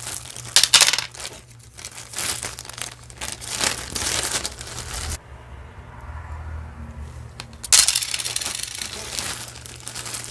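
Jewelry and its packaging being handled and sorted by hand: crinkling and rustling with light clinks of metal and beads. There is a first spell, a quieter pause past the middle, then a louder spell near the end.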